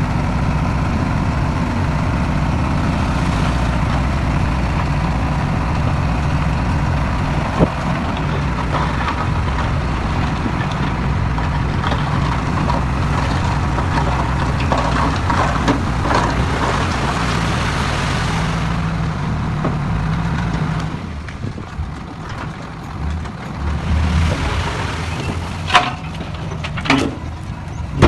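Heavy diesel engine of earth-moving machinery running steadily under load, with scattered clanks of stones. About 21 seconds in the engine falls away, and a few sharp knocks follow near the end.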